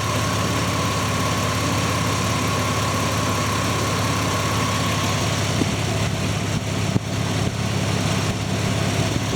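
2004 Mercury Mountaineer's 4.0L SOHC V6 idling steadily under test, with a thin high-pitched whine that drops out about halfway through.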